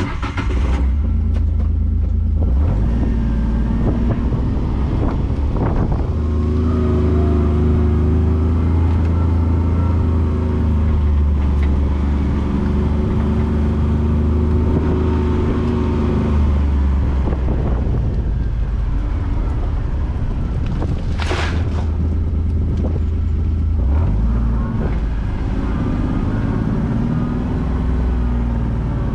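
A vehicle engine running steadily with a deep rumble, its pitch rising and falling a little as the engine speed changes, with one short sharp noise about two-thirds of the way through.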